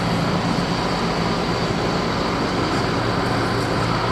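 Construction machinery engine running steadily at a constant pitch, with a low engine hum under a wide rushing noise.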